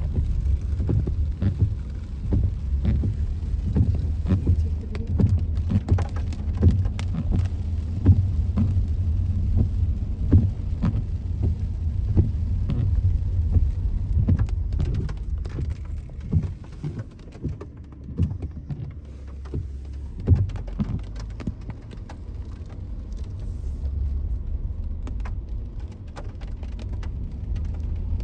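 Steady low rumble of a vehicle driving on a wet road, with frequent small taps and knocks throughout.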